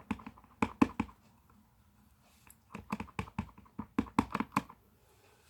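Clear-mount stamp on an acrylic block tapped repeatedly onto an ink pad to ink it: two runs of quick light taps, about four or five a second, with a short pause between them.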